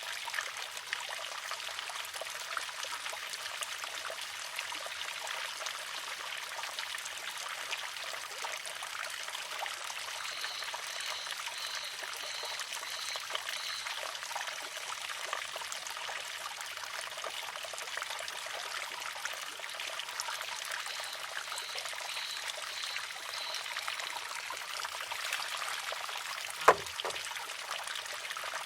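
Water trickling steadily into and spilling from a wooden water-driven shishi-odoshi (sōzu). Near the end its arm tips and strikes the stone once with a single sharp clack.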